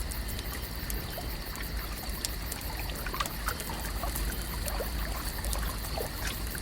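Lake water lapping and trickling at the shore, with many small drips and plops over a steady low rumble.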